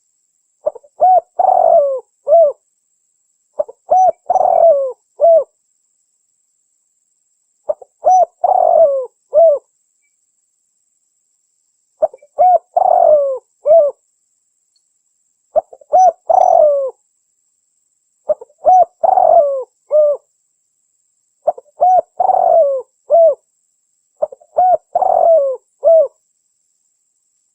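Spotted dove (tekukur) cooing: eight similar phrases, each a couple of seconds long and made of several short coos around a longer one, repeated every three to four seconds with dead silence between.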